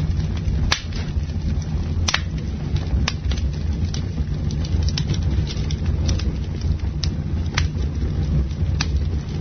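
Campfire crackling, with sharp pops about once or twice a second over a steady low rumble.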